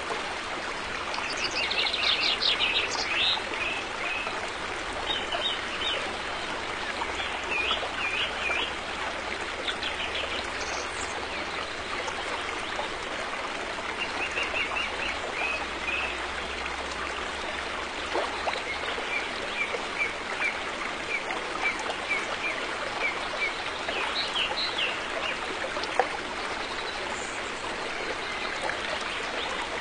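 River water flowing with a steady rushing hiss, while small birds chirp on and off above it, including a run of quick, evenly spaced chirps in the last third.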